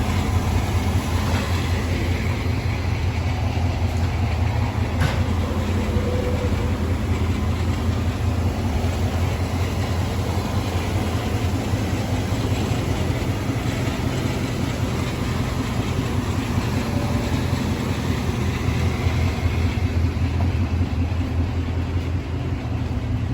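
Two-door Chevy Tahoe's engine running steadily at idle: an even low rumble with no revving.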